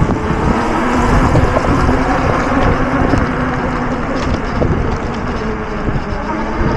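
Electric fat bike riding along the street: wind rushing over the camera microphone with the tyres' rumble, and a steady hum underneath.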